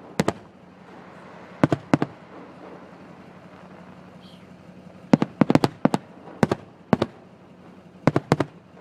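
Fireworks bursting: sharp bangs in quick clusters, two at the start, two about two seconds in, a rapid run of about five between five and six seconds in, then two single bangs and three more near the end.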